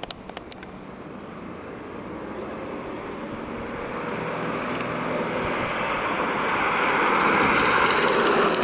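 A car, the 1988 Cadillac DeVille with its 4.5-litre V8, driving closer, its engine and tyre noise growing steadily louder and loudest near the end. A few light clicks come right at the start.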